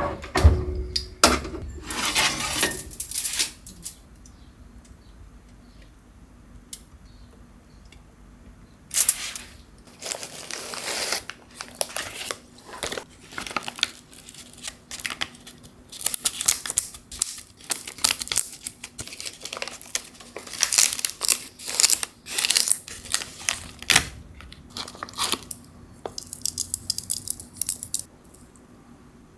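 Plastic or paper wrapping being crinkled and torn during food preparation, in irregular bursts with a pause of a few seconds early on.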